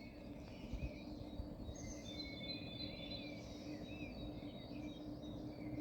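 Several small birds chirping and singing in short, varied phrases over a steady low background rumble with a faint constant hum.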